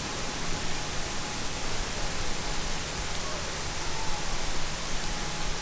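Heavy rain pouring down in a torrential downpour, a steady dense hiss.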